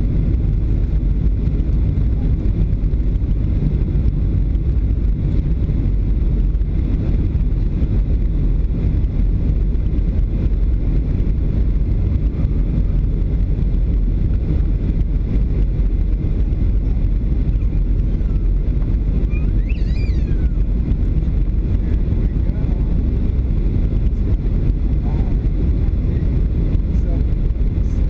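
Steady noise of a Boeing 737 airliner's engines and airflow heard inside the cabin, even and unchanging in level.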